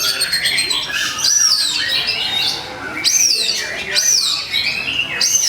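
Oriental magpie-robin (kacer) singing a fast, unbroken run of varied whistles, chirps and down-slurred notes, the excited, aggressive 'fighting' song kept by bird keepers to provoke other magpie-robins into singing.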